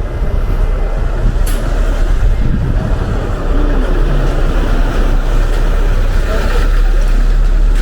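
City street traffic going by, a steady rumble mixed with wind buffeting the microphone, with a short sharp click about a second and a half in.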